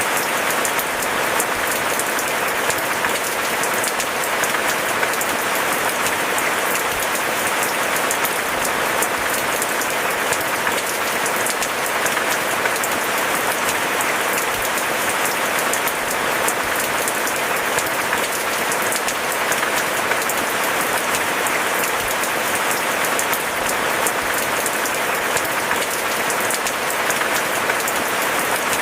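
Steady heavy rain: a dense, even patter of drops that keeps on without a break or change in level.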